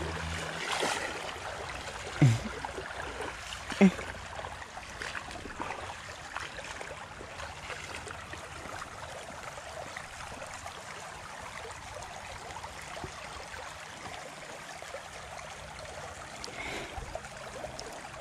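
Creek water running steadily over a shallow riffle, with two brief louder sounds about two and four seconds in.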